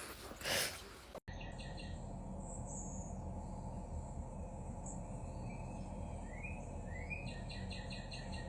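After an abrupt cut about a second in, bird chirps over a steady low background noise, with some rising calls and a fast trill of about eight notes a second near the end.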